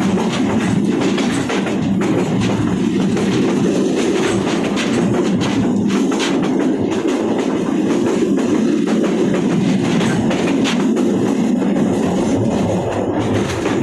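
Passenger train running along the tracks: a steady rumble with the wheels clacking over rail joints.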